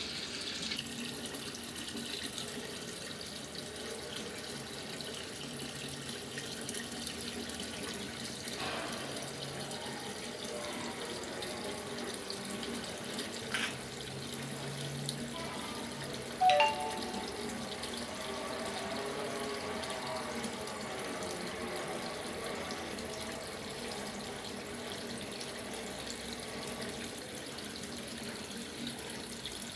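Water running steadily into the drum of a top-loading washing machine as it fills. A brief, sharper sound stands out about halfway through.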